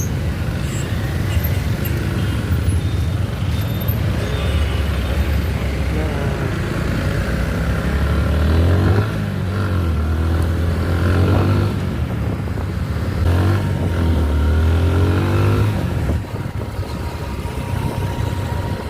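Motorcycle engine running while riding through city traffic, speeding up several times with rising engine pitch.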